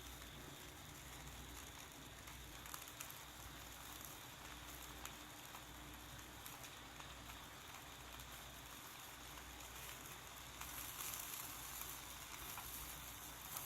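Fire burning in a Captain Stag fire pit, a faint steady hiss with scattered small crackles and pops; the hiss grows louder about eleven seconds in.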